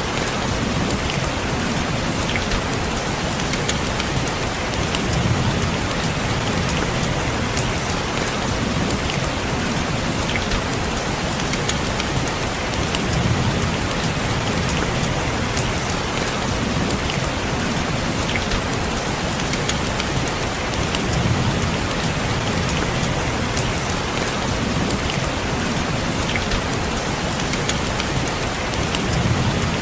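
Steady rain falling, a dense even hiss with the ticks of single drops, and a low swell in the sound about every eight seconds.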